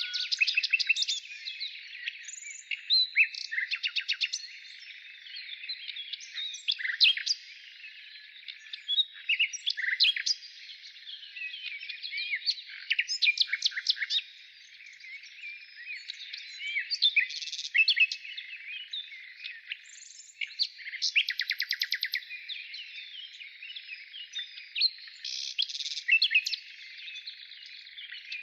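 A chorus of several wild birds singing at once: a dense, continuous mix of chirps, whistles and fast rattling trills, with louder bursts of song every few seconds.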